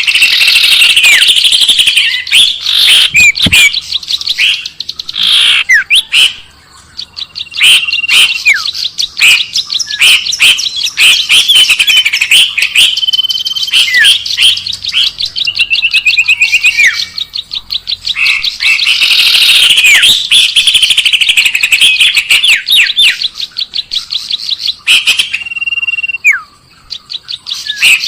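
Recorded bird lure call: a loud, dense mix of many small birds chirping, trilling and whistling in rapid runs, with a couple of brief lulls.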